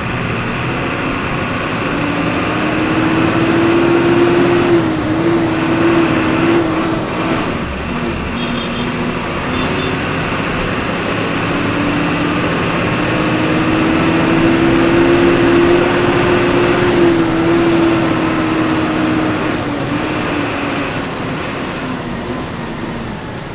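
Diesel engine of a Volkswagen 17.230 EOD city bus, heard from inside the bus, revving up under acceleration with a drop in pitch about five seconds in, like a gear change. It climbs again for several seconds, then slowly falls away over road noise.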